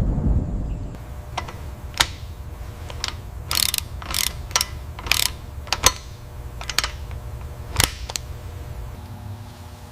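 Irregular sharp mechanical clicks and clacks of restoration work on metal parts, some in quick clusters, over a faint low hum; a low rumble dies away about a second in.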